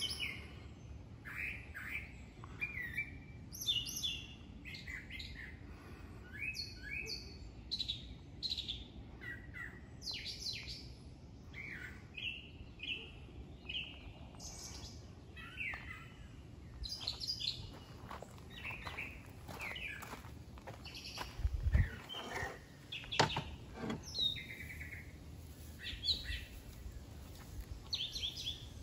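Songbirds chirping and singing, with many short call notes throughout over a faint outdoor background. A low thump about three quarters of the way through, followed by a sharp click.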